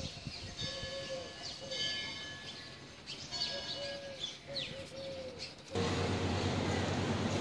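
Birds chirping and calling in short curved notes, with a lower arched call repeated several times. About six seconds in this cuts off abruptly into a louder, steady rushing noise with a low hum.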